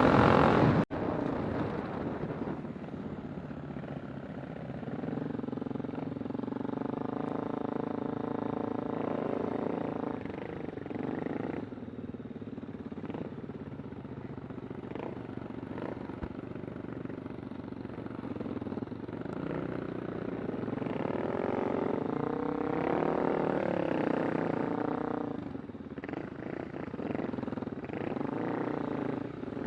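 A Kawasaki Super Sherpa's single-cylinder four-stroke engine running as the motorcycle is ridden, its pitch rising and falling with the throttle.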